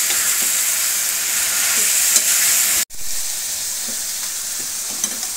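Chicken, sliced onions and chopped tomatoes sizzling in ghee in a metal karahi, with a metal ladle stirring and scraping through them. The sound cuts out for an instant a little under three seconds in, then the sizzling carries on.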